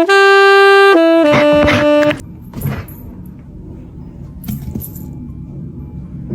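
A wind-instrument melody in a comic style: a few notes stepping upward, one long high note held for about a second, then stepping back down and stopping about two seconds in. After that there is only a much quieter, indistinct background noise.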